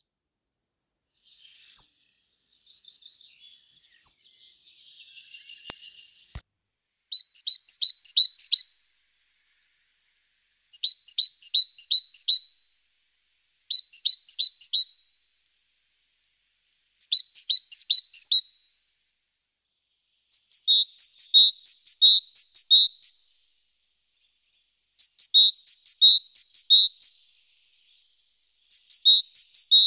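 A small songbird singing: short phrases of quickly repeated two-part notes, about seven phrases with pauses between them, after a few faint high chirps at the start.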